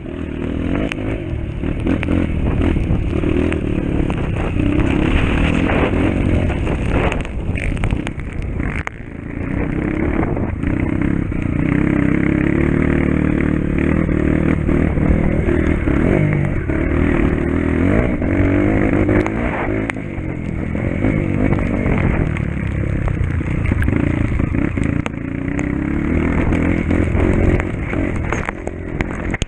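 Motocross motorcycle engine running hard, revving up and down over and over as the throttle opens and closes, with rattling and clatter mixed in.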